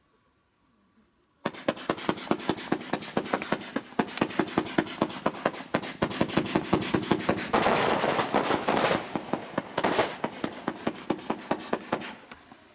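A multi-shot fan barrage firework cake firing a rapid volley of shots, about four a second. It starts about a second and a half in, grows denser past the middle, and dies away near the end.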